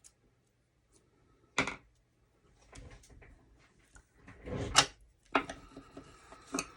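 Card stock and paper being handled on a craft table: a handful of separate knocks and rustles, the loudest a little under five seconds in.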